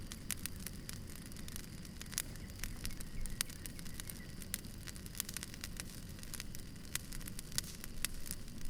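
Campfire crackling: many irregular sharp pops and snaps from the burning wood, over a steady low rumble.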